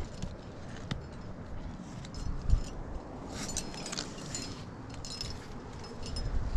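Metal climbing gear (carabiners and hardware on a harness) clinking and jingling in several small clusters, loudest in the middle, over a low rumble of wind on the microphone.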